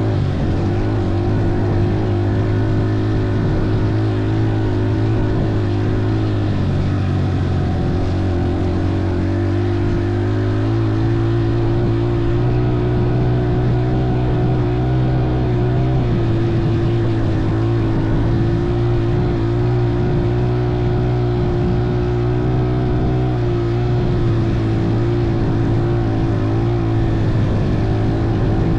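Motorcycle engine running at a steady speed under way, its pitch shifting about a third of the way in as the revs change.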